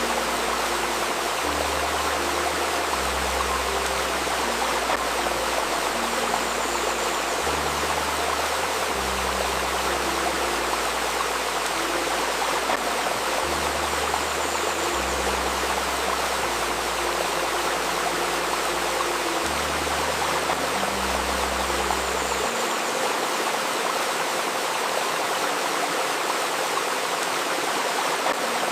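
Steady rushing and babbling of a river stream, with soft low sustained tones underneath that shift every second or two; the low notes stop about three-quarters of the way in.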